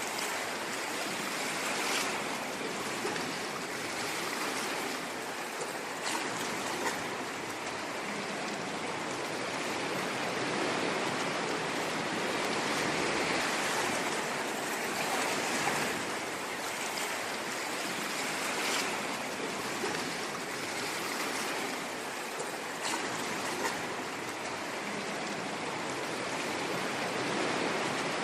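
Ocean waves washing and breaking on a shore, a continuous wash of surf that swells and ebbs gently, with brief fizzing crackles now and then.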